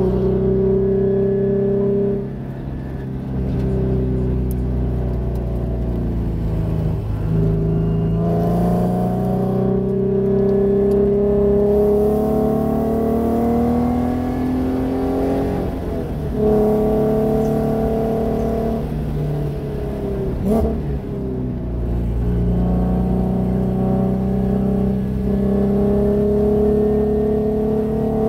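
Nissan 370Z Nismo's 3.7-litre V6 heard from inside the cabin, pulling hard in third gear with its pitch climbing, then falling away as the throttle is lifted for corners, about four times. A brief knock sounds about two-thirds of the way through.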